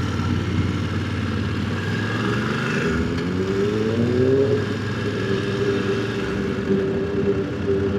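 Motorcycle engine running while riding, rising in pitch as it accelerates from about two seconds in, then holding a steady note at cruising speed.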